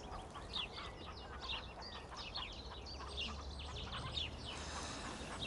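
Small songbirds chirping repeatedly in quick, short notes over a steady low outdoor rumble.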